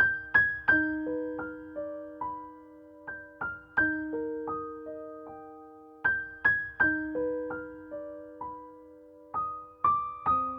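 Soft, slow background piano music: single struck notes overlap and fade in a gentle arpeggiated pattern.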